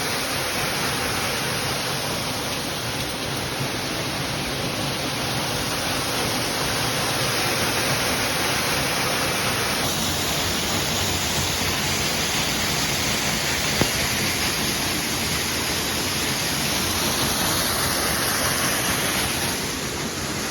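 Waterfall pouring through a hole in a rock overhang, running strong after heavy rain: a loud, steady rush of falling water.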